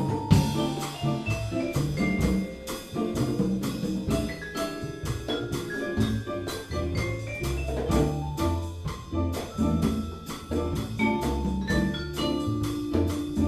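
Live Latin jazz combo playing an instrumental cha-cha groove: a string bass line, a mallet-struck melody over it, and a steady pulse of hand percussion.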